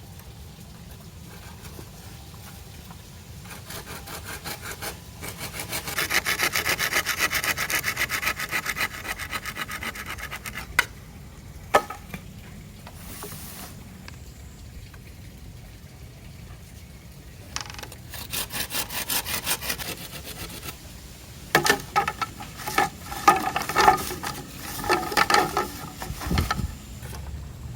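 Saw cutting wood in several bursts of quick back-and-forth strokes, with a couple of sharp knocks between the bursts.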